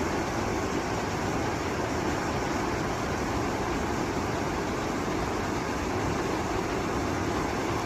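Steady rushing of river water at a small waterfall, a constant, even noise throughout.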